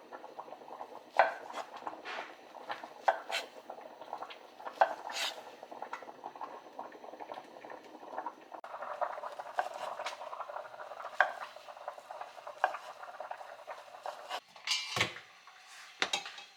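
Kitchen utensils clinking and scraping against pots and dishes in scattered sharp knocks, over a steady hiss of cooking. A heavier knock comes near the end.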